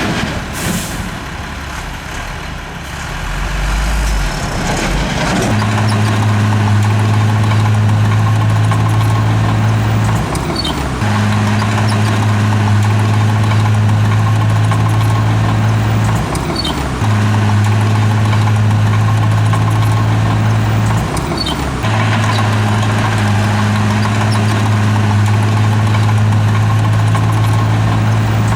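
Heavy diesel engine of a bulldozer working under steady load, its pitch dipping briefly every five or six seconds as the machine changes speed or direction.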